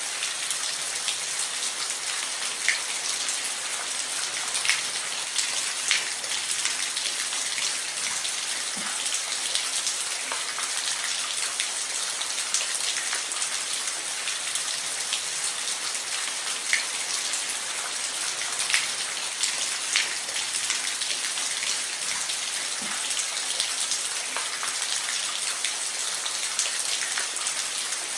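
Steady rain on a roof: a constant hiss with many individual drops ticking, a few louder drips standing out here and there.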